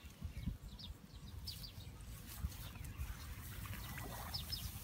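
Short high bird chirps now and then, several times, over a steady low rumble.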